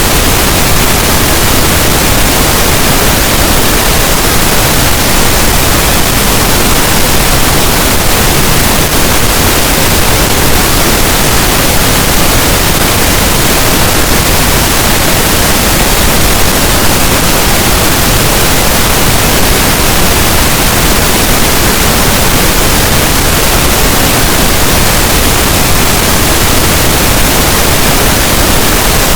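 Steady pink noise: an even, unchanging hiss across the whole range of pitch, loud and constant with no events.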